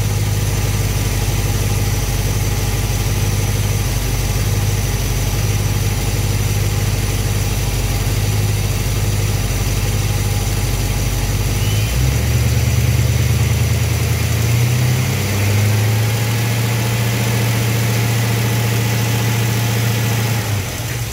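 Mopar engine idling steadily. About twelve seconds in it is raised to roughly 1500 rpm, held there for several seconds, then let back down to idle near the end, during a timing-light check of the ignition advance.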